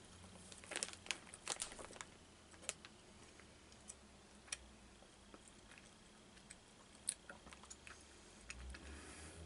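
Faint chewing of a sour gummy worm, with a cluster of soft mouth clicks and smacks between about one and three seconds in, then only scattered ticks.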